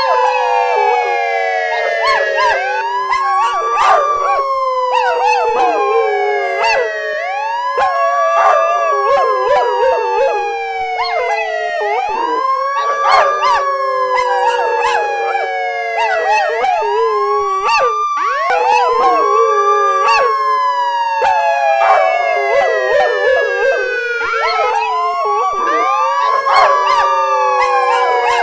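Wailing sirens, several overlapping, each rising quickly and then falling slowly in a cycle of about four seconds, with dogs howling along.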